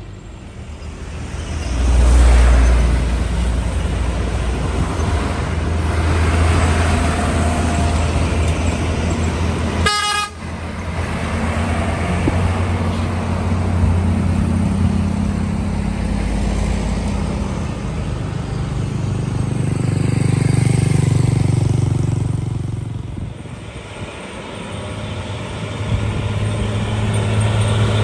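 Heavy diesel trucks passing one after another, their engines running loud and low, with one short horn toot about ten seconds in.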